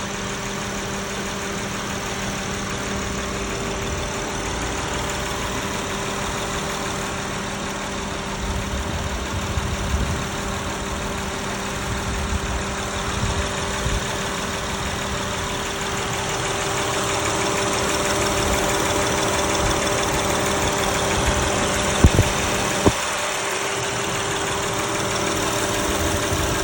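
High-mileage Honda V6 engine idling steadily with a tick from the front cylinder head, running on Valvoline Restore & Protect oil. Near the end, two sharp clicks come a little under a second apart.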